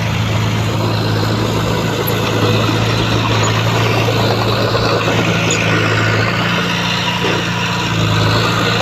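Heavy diesel engine of earthmoving machinery running steadily, a constant low engine note under a layer of mechanical noise.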